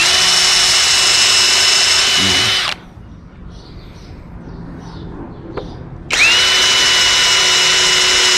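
Power drill boring pilot holes into 2x12 lumber: the motor spins up with a short rising whine and runs at a steady high pitch for about two and a half seconds, stops, then starts again about six seconds in for the next hole.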